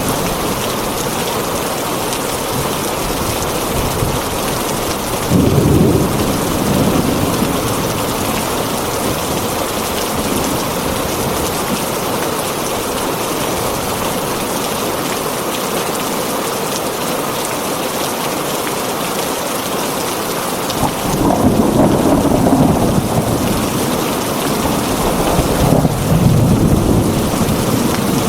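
Heavy rain drumming steadily on a tin roof, with thunder rumbling about five seconds in and twice more near the end.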